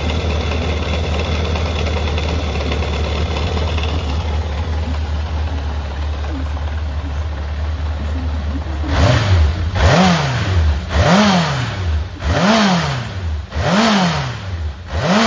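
Honda CB750F (RC04) air-cooled inline-four engine running steadily, then blipped five times in quick succession, each rev rising and falling back, about once every second and a bit. The running engine being sold as a working unit.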